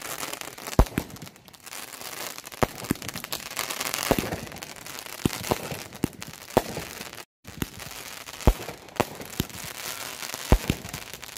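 Consumer fireworks cake firing its aerial shots: a dozen or so sharp bangs at uneven intervals, with crackling hiss between them.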